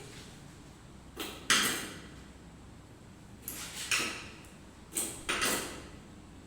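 Three short rasping scrapes, each about half a second long and made of two quick strokes, spaced about a second and a half apart.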